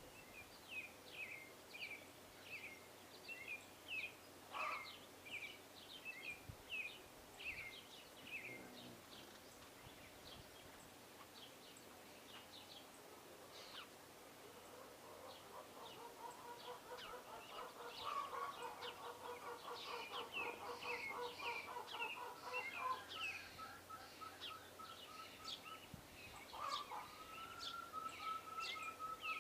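Small birds calling with many short, sharp, falling chirps. From about halfway a lower, rapidly pulsed chattering call joins in, stops, and starts again near the end.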